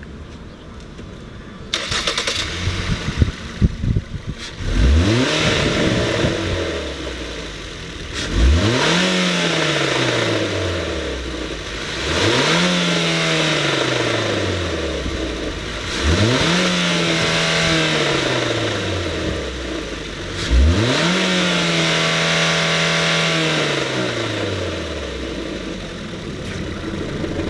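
2014 Ford Transit Connect van engine cranking and catching, flaring as it starts, then settling to idle. It is then revved four times, each rev rising quickly, holding briefly and falling back to idle; the last rev is held longest.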